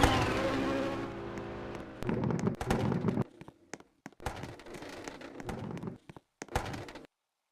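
Car engine fading away over the first couple of seconds as the car drives off after a flyby, followed by a few seconds of scattered short pops and knocks that stop about a second before the end.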